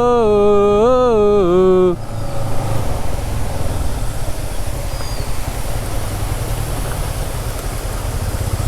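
A voice drawing out a wavering 'ooh' for the first two seconds. Then comes the steady low rumble of a moving vehicle's engine and wind, with a faint high chirp about five seconds in.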